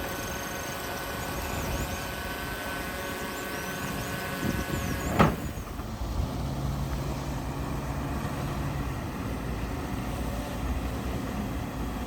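Heavy earthmoving machinery engine running steadily, with one sharp metallic knock about five seconds in, then a lower, deeper rumble.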